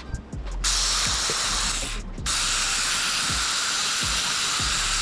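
Pressurized spray hissing in two long bursts: one of about a second and a half, then after a brief break a longer steady one.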